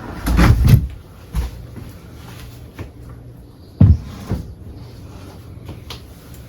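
Scattered knocks and bumps: a cluster in the first second and one loud knock about four seconds in, with a few lighter ones between.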